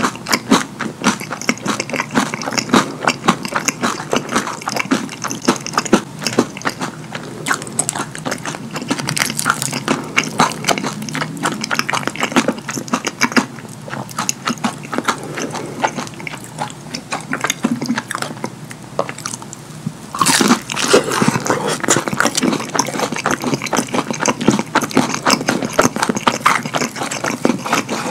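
Wet chewing and lip-smacking of a mouthful of fast food (chicken nuggets and cheeseburger with cheese sauce), a dense run of sticky clicks and squelches, with a louder stretch about two-thirds of the way through.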